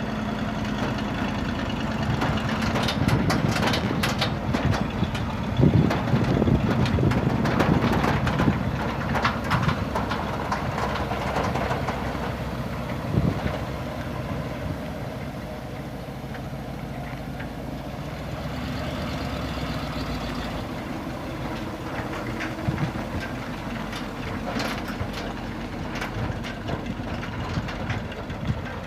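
The engine of a 1969 Chevrolet C60 grain truck running, louder and rattlier for several seconds in the first half, then settling to a steadier run.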